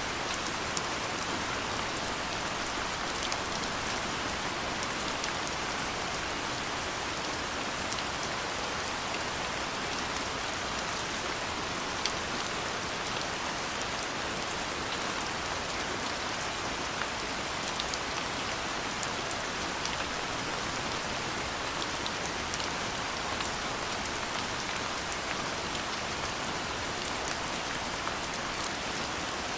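Gentle rain falling steadily: an even hiss, with many individual drops ticking sharply at random through it.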